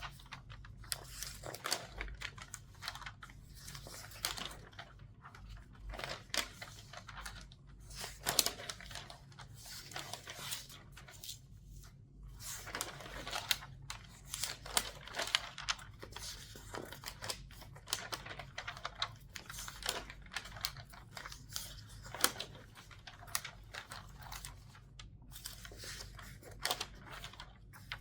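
Newspaper pages turned quickly back to front, one after another: a continuous run of crisp rustling and crackling paper with sharp snaps as each sheet flips.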